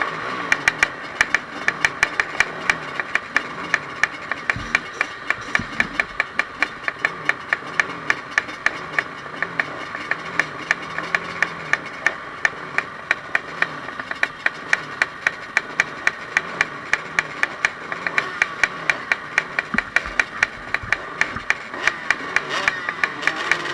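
Several enduro motorcycle engines running at the start line, revving up and down, with a rapid, uneven ticking throughout.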